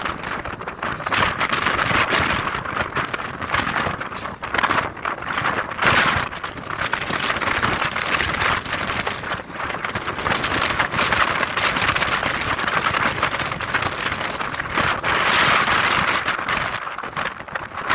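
Storm wind of about 70 mph buffeting a phone's microphone: a continuous rush of noise that swells and eases with the gusts, with short sharp buffets along the way.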